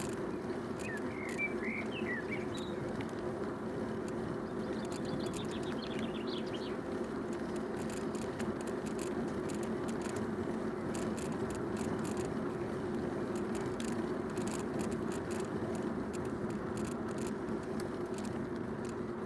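Bicycle being ridden: steady rolling noise from the tyres with light clicks and rattles. Birds sing over it, a few chirps about a second in and a short fast trill around five seconds in.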